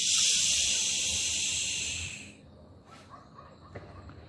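A steady hiss, a drawn-out 'tsss' made through the teeth, imitating a sizzle: the woodpecker's red-hot beak plunged into water. It stops a little over two seconds in.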